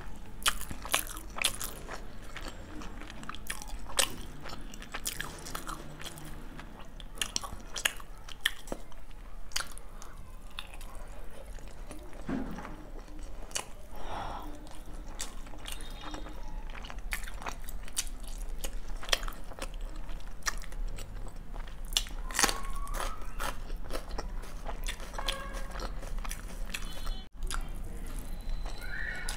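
Close-miked chewing of mouthfuls of biryani rice and boiled egg eaten by hand, with many sharp, irregular wet mouth clicks.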